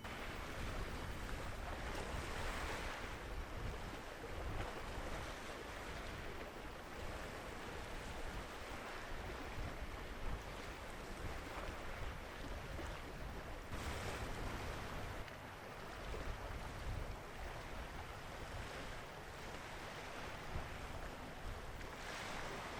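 Steady wind noise on the microphone with a low rumble, swelling in brief gusts a few times.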